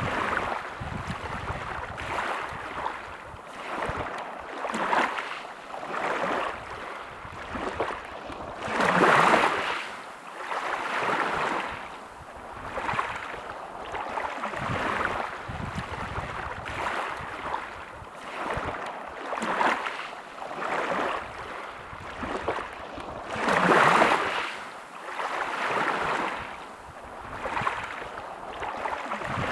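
Small sea waves washing ashore, a soft surge of surf about every two seconds, with two larger waves breaking about a third of the way in and again near the end.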